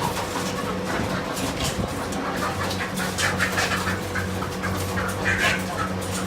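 Many caged market animals, live poultry among them, giving short overlapping calls and squawks, over a steady low electrical hum.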